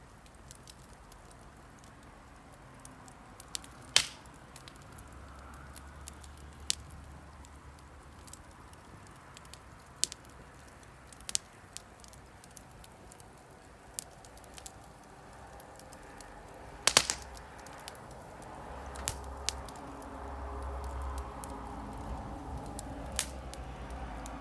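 Wood fire crackling, with scattered sharp pops and snaps, the loudest about four seconds in and again a little past the middle. A soft hiss builds toward the end.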